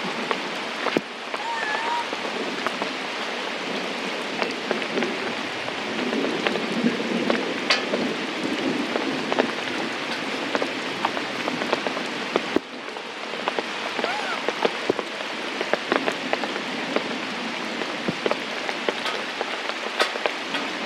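Heavy rain falling steadily: a continuous hiss with many sharp drop impacts.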